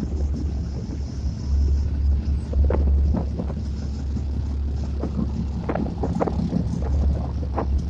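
Low, steady rumble of idling vehicle engines, with brief faint voices now and then.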